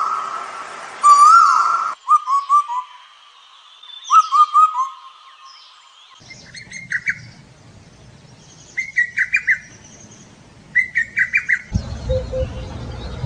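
Calls of several different birds in short clips that change abruptly: first a whistled call that rises and falls, then groups of quick descending notes, then short clusters of rapid chattering notes repeated about every two seconds.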